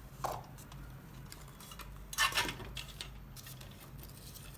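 A few light clicks and taps from hands handling the parts of a homemade Stirling engine, the loudest about two seconds in, over a faint steady low hum.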